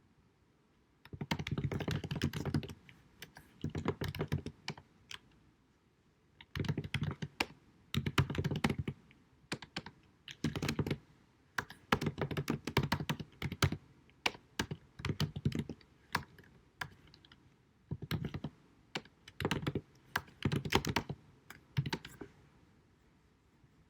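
Typing on a computer keyboard, recorded in low quality: quick runs of key clicks in bursts of one to two seconds with short pauses between them.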